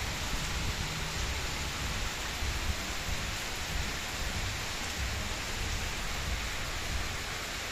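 Heavy rain falling and splashing on roofs and flooded ground, a steady hiss. Underneath it runs an uneven low rumble.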